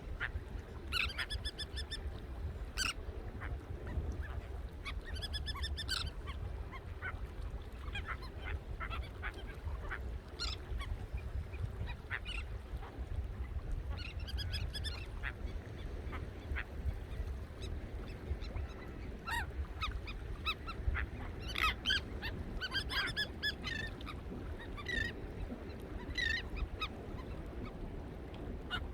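A flock of birds at the shore calling repeatedly, short overlapping squawks coming thick and fast, busiest near the end, over a steady low rumble.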